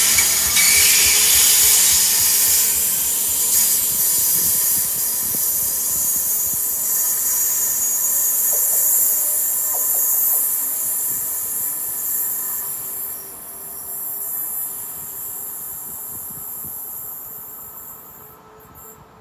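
Electric passenger train running past and pulling away on steel rails, with a high-pitched hiss and squeal of wheels on rail. It is loudest at the start and fades slowly as the train recedes.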